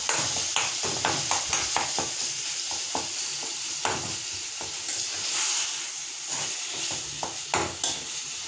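Minced chicken sizzling in hot oil with onion and ginger-garlic paste in a metal kadai, freshly added and being stirred: a steady frying hiss with quick, irregular scrapes and taps of a steel spoon against the pan.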